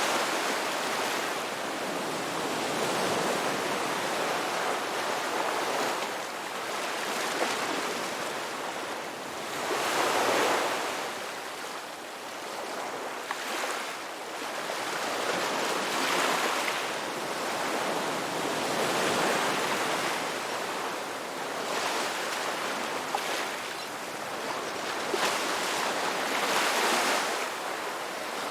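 Ocean surf washing onto a beach: a continuous rush of water noise that swells and fades every few seconds as waves come in.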